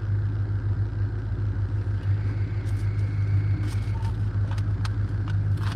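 Stationary vehicle's engine idling with a steady low hum. There are a few faint clicks, and a sharper one near the end.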